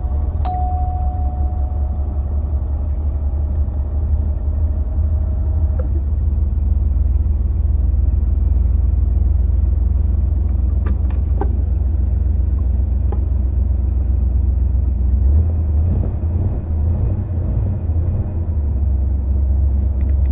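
Car engine idling with a steady low rumble just after a cold start. A brief high tone sounds near the start, and a few sharp clicks come about halfway through.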